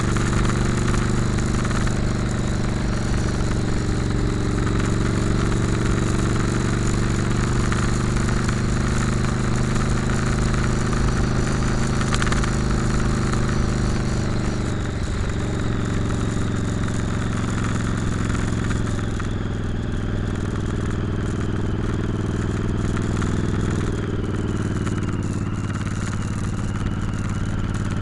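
Motorcycle engine running while riding, its note steady for long stretches and changing about halfway through and again near the end, with wind rush on the microphone.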